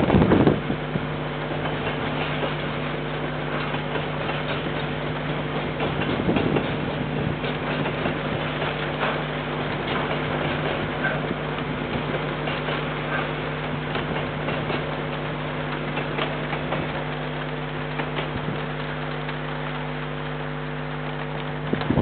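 Freight train of container wagons rolling past at a distance, a rumbling wash with faint clicks, under a steady electrical hum from the security camera's microphone. Louder gusts of wind at the start and again about six seconds in.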